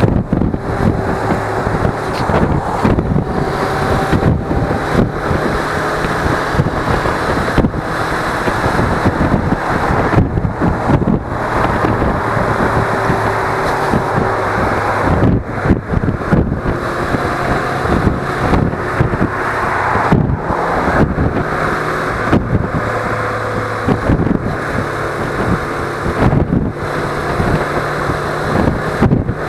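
Suzuki V-Strom 250 motorcycle's parallel-twin engine running steadily while riding, with heavy wind noise on the camera microphone.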